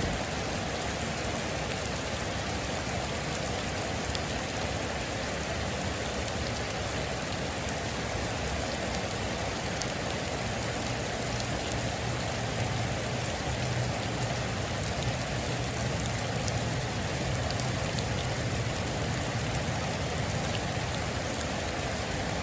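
Heavy rain falling steadily on a metal roof, with a few sharper drop ticks.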